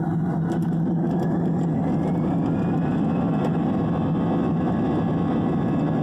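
Airbus A320 jet engines heard from inside the cabin: a loud steady rumble with a whine that rises in pitch over the first few seconds as the engines spool up for the takeoff run.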